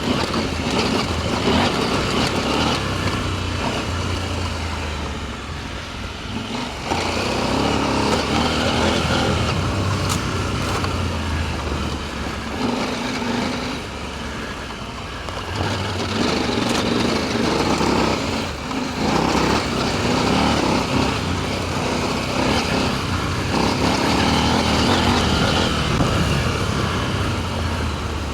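Adventure motorcycle engine running on a dirt trail, its note rising and falling with the throttle, over a steady rushing noise.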